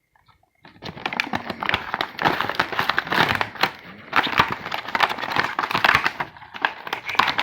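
Action figure's plastic and cardboard packaging being handled and opened, crinkling and crackling in a dense run of clicks that starts just under a second in.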